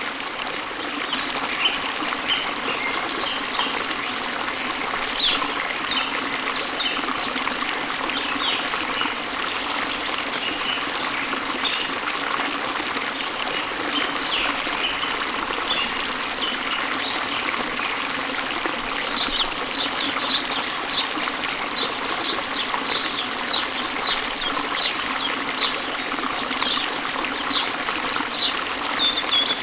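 Waterfall water rushing steadily, with small birds chirping over it; the chirps come thicker and quicker from about two-thirds of the way through.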